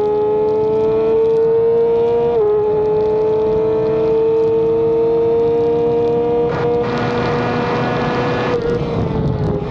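Racing motorcycle engine at high revs under power, shifting up about two seconds in, then climbing slowly in pitch as it pulls through the gear. A rush of wind noise swells near the end as the revs begin to fall.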